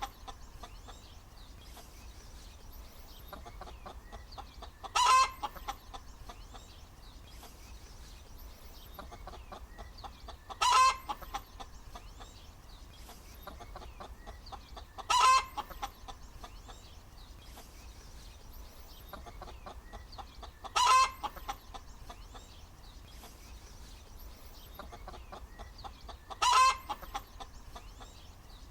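Hen cackling: a low, rapid run of clucks throughout, broken by a loud, short squawk about every five and a half seconds, five times in all.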